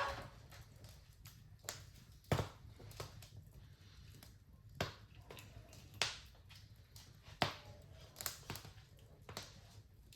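Wood fire crackling in a fireplace: irregular sharp pops and snaps, a handful louder than the rest, over a steady low rumble.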